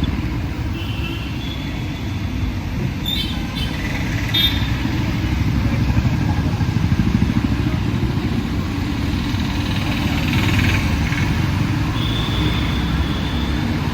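Busy city street traffic: motorcycles and cars passing in a steady rumble of engines and tyres, with a few short high-pitched sounds over it.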